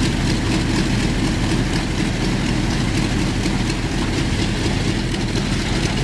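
Radial piston engines of a Douglas DC-4 running steadily at low power during engine start-up, a continuous deep drone with a fast, even pulse.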